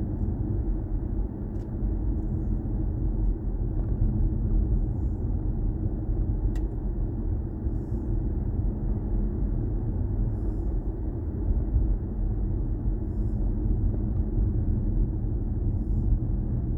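Steady low road and tyre rumble inside the cabin of a BMW i4 M50 electric car on the move, with no engine note.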